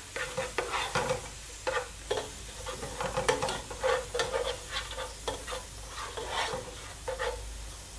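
Crushed ginger, garlic and green chilli sizzling in coconut oil in a pot, being sautéed until the raw smell goes, while a spatula stirs and scrapes through them in repeated strokes.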